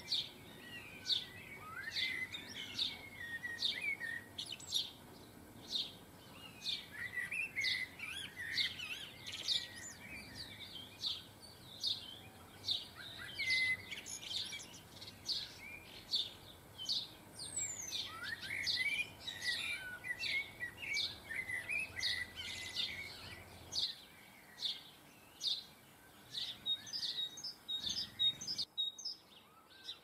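Small garden birds chirping and twittering: a run of short, sharp chirps repeating over and over, mixed with busier twittering phrases.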